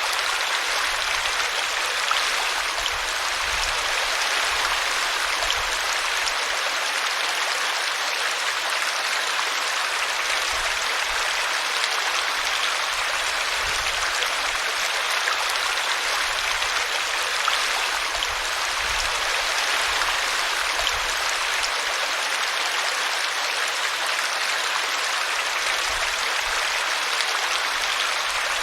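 Stream water flowing, a steady, even rush with no change in level.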